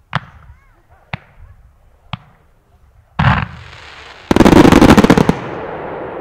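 Fireworks firing: three single sharp bangs about a second apart, then fountains and comets going off with a loud whoosh and sustained hiss about three seconds in. Midway this breaks into a rapid volley of sharp cracks, the loudest part, which fades into a trailing hiss and crackle.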